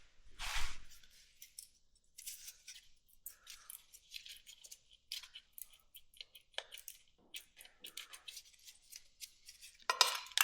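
Irregular small clicks and scrapes of hand tools on metal as motorcycle carburetor clamps are worked loose, with a louder scrape about half a second in and another near the end.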